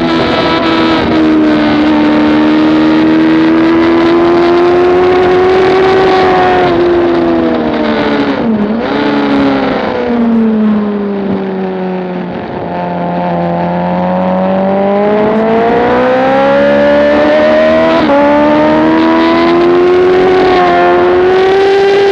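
Motorcycle engine at speed on a race track, heard through an onboard camera with wind rush. The engine note holds high, dips sharply about a third of the way in, sinks slowly as the bike slows to a low point just past halfway, then climbs steadily again under acceleration.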